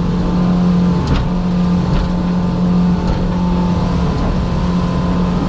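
Engine of an 18 ft Raider motorboat running steadily at cruising speed, a constant hum with rumbling underneath.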